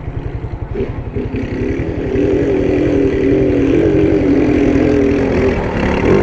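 A motorcycle engine pulls hard at steady revs as it climbs a flight of outdoor stairs under load, coming in about a second in. Under it, the even low pulsing of a Honda motorcycle idling.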